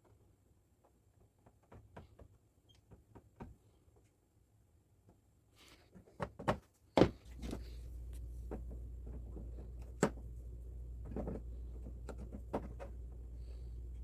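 Scattered light clicks and knocks of objects being handled on a workbench. About halfway through, a steady low hum comes on, with a few sharper knocks over it.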